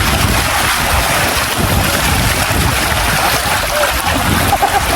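Steady rushing noise of river water.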